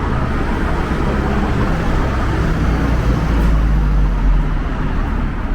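A vehicle running, a steady low rumble with no distinct events.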